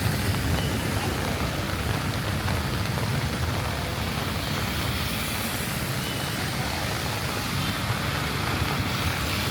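Steady rain with passing traffic on wet roads: a continuous hiss over a low vehicle rumble.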